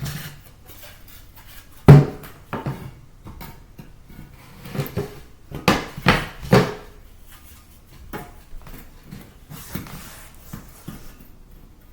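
A series of separate knocks and clunks from boards and tools being handled and set down while flooring is cut, the sharpest and loudest about two seconds in, more clustered around five to seven seconds, then lighter taps.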